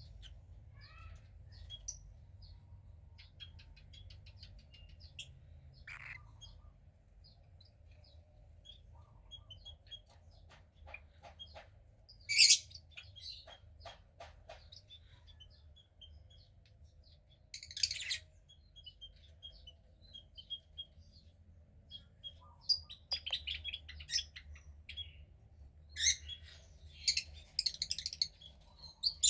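A cockatiel chick chirping: scattered short high chirps, two louder calls about twelve and eighteen seconds in, and a busier run of calls near the end.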